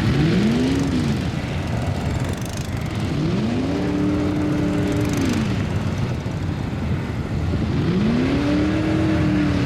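Mud truck engine revved three times, the pitch climbing, holding, then dropping back each time, over a constant low rumble. The first rev is short; the later two are each held for about a second and a half.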